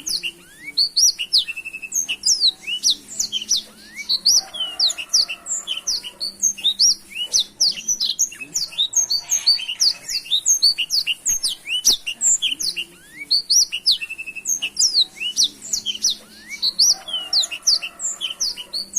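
Black-throated canary (blackthroat) singing continuously in full song: a fast, unbroken stream of high chirps, trills and twitters with no pauses, the vigorous 'gacor' song used as a tutor recording for young songbirds.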